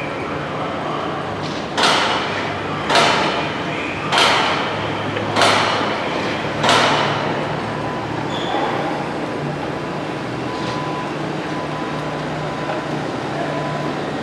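Five loud, evenly spaced hammer strikes on a construction site, about a second and a quarter apart, each with a short ringing tail, over a steady background hum.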